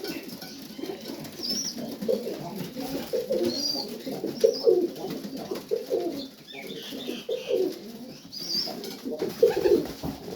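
Domestic pigeons cooing repeatedly in a loft, several low coos overlapping, with a few brief high chirps among them.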